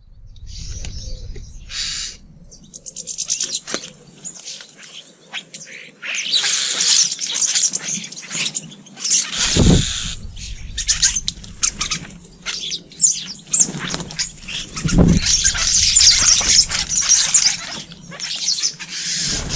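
Small garden birds at feeders chirping and twittering in dense, rapid high-pitched chatter that grows busier about six seconds in. Two brief low thuds cut in, near the middle and again about three-quarters of the way through.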